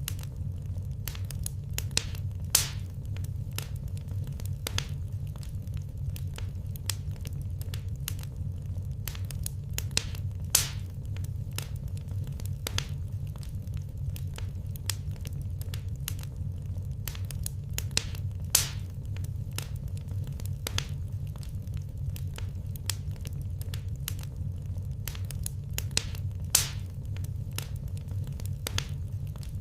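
Wood fire crackling in a fireplace: a constant stream of small sharp crackles over a steady low rumble, with a louder pop about every eight seconds.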